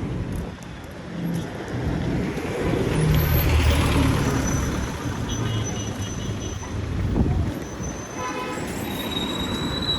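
Street traffic with a motor vehicle passing close, its engine rumble loudest about three to four seconds in. A short vehicle horn toot comes near the end.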